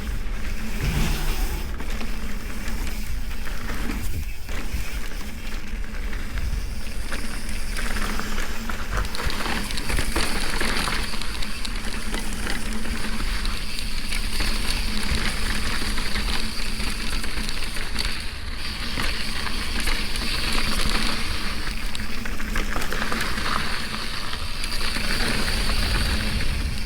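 Mountain bike running down a dirt trail: tyres rolling over dirt and rock, the bike rattling, and wind rushing over the microphone.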